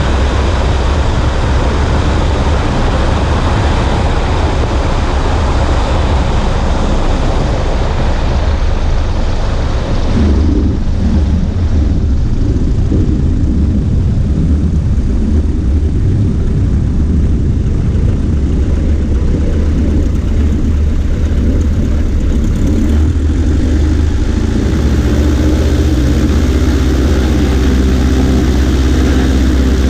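Cessna 140A's propeller-driven engine with heavy wind rush. About ten seconds in, the rushing noise drops away sharply, leaving the engine's low drone, which settles into a steadier tone near the end.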